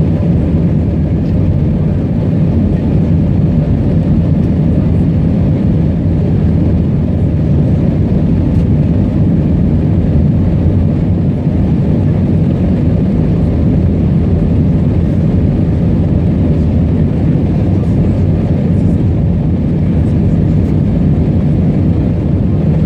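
Steady low rumble of engines and airflow inside an Airbus A320-200 cabin.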